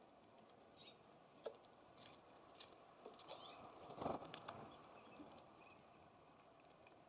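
Faint scattered taps and pecks of small songbirds at a wooden feeder, with a few short high chirps and one louder knock about four seconds in.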